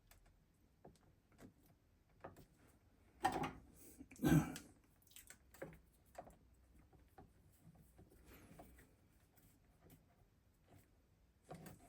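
Scattered light knocks and clicks of parts being handled, with two louder knocks about three and four seconds in.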